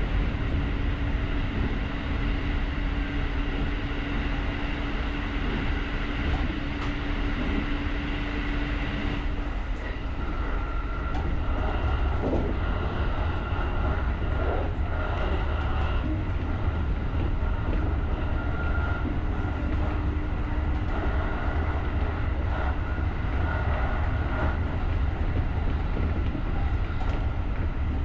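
JR rapid electric commuter train running along the track with a steady low rumble of wheels on rail. A steady motor-like hum shifts to a higher tone about ten seconds in.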